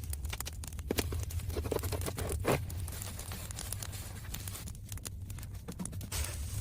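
Reflective foil insulation being handled and stapled to a dirt wall: foil rustling with a few sharp stapler clicks, the clearest about a second in and midway, over a low steady rumble.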